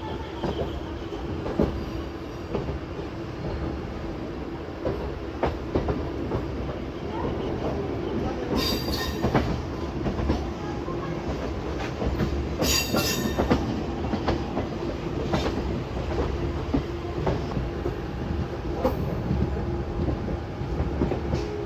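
MEMU electric train rolling slowly through the station, its wheels clicking irregularly over rail joints and points under a steady hum. Two brief high-pitched wheel squeals come about nine seconds in and again about four seconds later.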